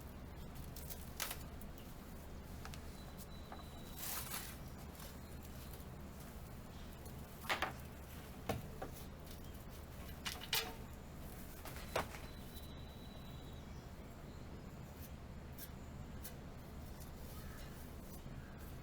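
Scattered light clicks and taps from bicycle parts and tools being handled, with four or five sharper ticks in the middle stretch, over a steady low hum.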